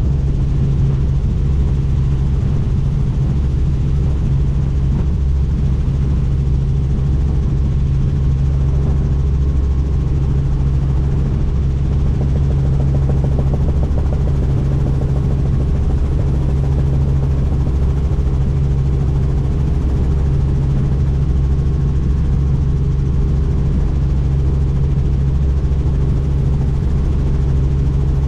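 Helicopter in flight, heard from on board: a loud, steady low drone of rotor and engine that never changes.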